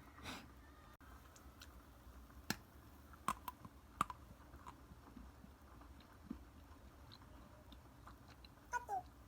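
Frozen chocolate being bitten and chewed: scattered sharp, crisp cracks, the loudest a few seconds in, between quieter chewing. A brief falling cry sounds near the end.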